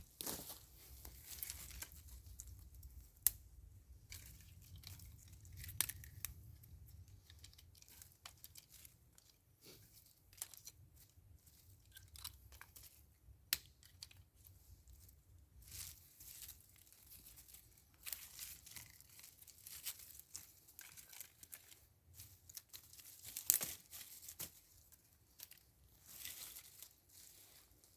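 Dry forest material, twigs and leaves, being broken and handled: irregular crackling and tearing with sharp snaps scattered throughout.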